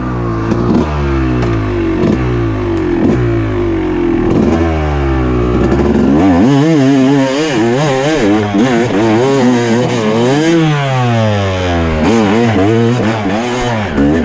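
Dirt bike engine revving up and down as the throttle is worked on a trail. In the first half the pitch climbs and drops in repeated steps, and in the second half it wobbles quickly up and down, with one longer rise and fall near the end.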